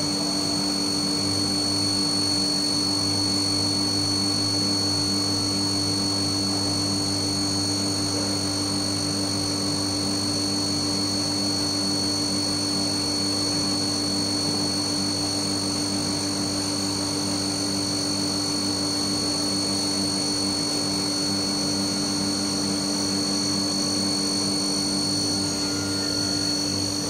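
Haas MiniMill CNC spindle running at high speed with a steady high-pitched whine over a lower machine hum.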